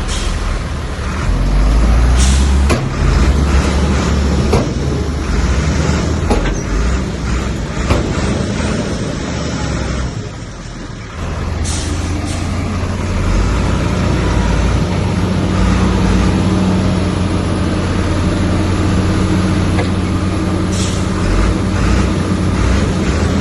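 Heavy diesel earthmoving machinery working, with scattered knocks and a few short sharp noises. The engine sound drops briefly about ten seconds in, then comes back as a steady drone.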